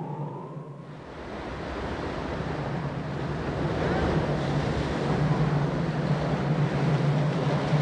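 Blizzard wind and rough sea, a rushing noise that grows louder over the first couple of seconds, over a steady low hum.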